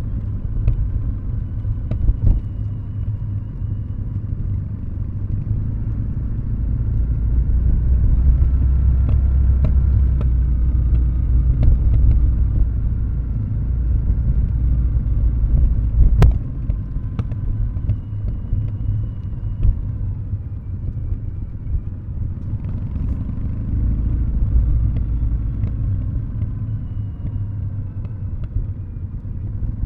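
Kawasaki W650's air-cooled parallel-twin engine burbling at low revs through Nasert Trad aftermarket mufflers, the throttle closed as the bike coasts downhill. The low rumble swells and fades a little, with a few sharp clicks, the loudest about halfway through.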